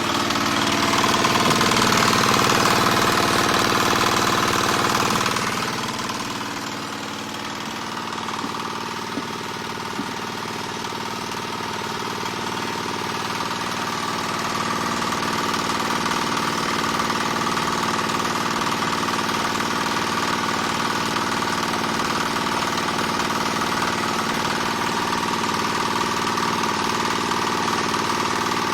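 Diesel engine of a small single-screw palm oil press, running steadily. It is louder for the first five seconds or so, dips, and then builds back up over the next several seconds.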